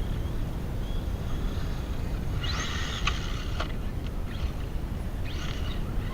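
Kraton V2's Leopard 4082 brushless motor whining as the RC truck accelerates, in two short bursts rising in pitch, about two and a half seconds and five seconds in, over a steady low rumble.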